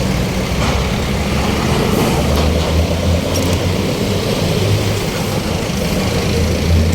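Steady rumble of road traffic, with vehicle engines running and idling in a traffic jam.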